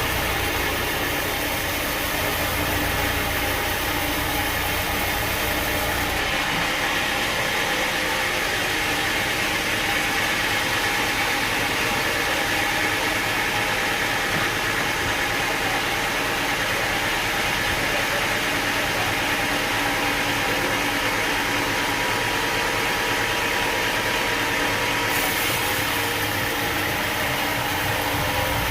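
Sawmill machinery running with a steady mechanical drone and hum. The sound changes abruptly twice, about six seconds in and again near the end.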